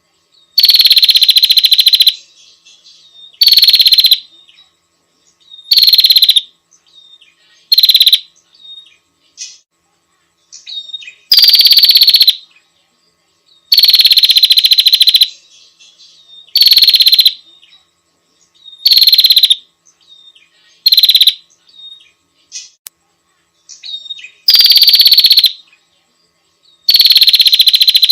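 Female prenjak (prinia) calling: loud, rapid high-pitched trills lasting up to about a second and a half, each falling slightly in pitch, repeated every two to three seconds, with faint short chirps between them.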